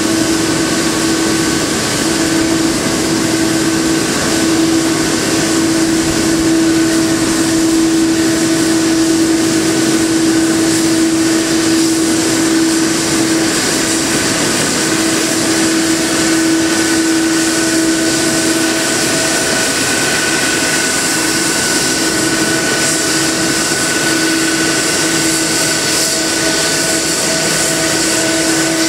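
Steady jet engine noise and air rush of a Boeing 777-300 heard inside the cabin, with a constant humming tone over the rushing and no change in power.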